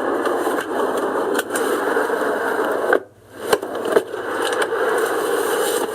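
Car heater blower fan blowing steadily inside the car's cabin, its air noise louder than the engine. The sound briefly drops out about three seconds in, then resumes.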